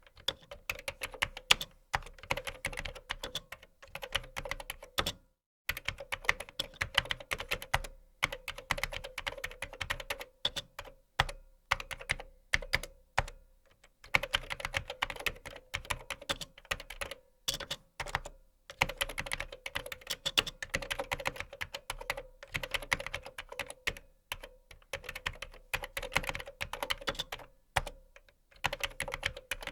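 Typing on a computer keyboard: fast runs of key clicks, broken by short pauses every few seconds.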